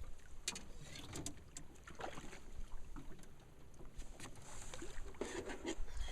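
Faint knocks and clicks of fishing gear being handled aboard a small boat, over a low steady rumble.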